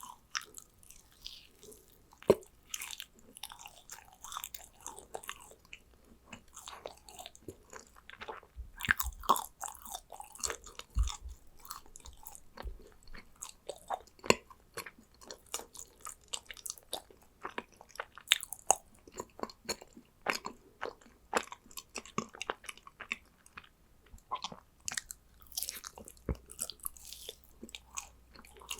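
Close-miked chewing of yakgwa, Korean honey-glazed fried cookies: irregular sticky, crackly mouth sounds with occasional soft bites, and no talking.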